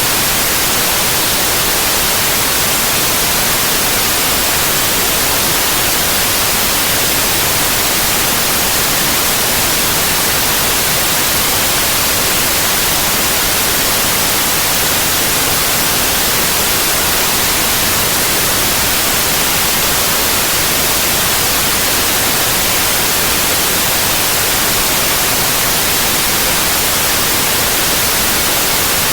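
Steady white noise: an even, unbroken hiss, bright and loud, with no change.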